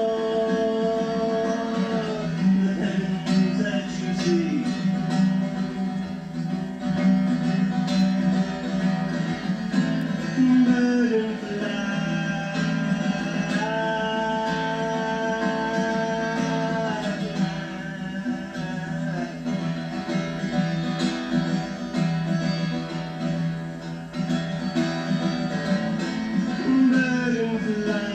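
Live acoustic guitar playing a song's instrumental passage, with chords strummed throughout. Above them a melody line of long held notes slides into each new pitch.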